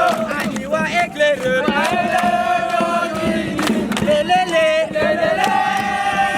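A group of scouts singing a campfire chant together, several voices holding and sliding between sung notes.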